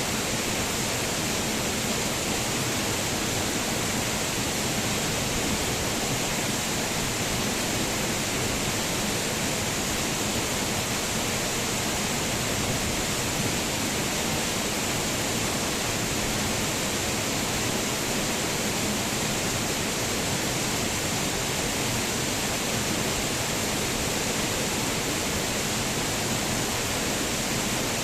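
Waterfall: falling water splashing in a steady, even rush with no change in level.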